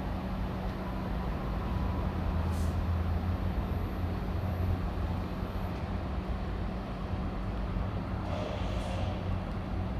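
A steady low mechanical hum and rumble.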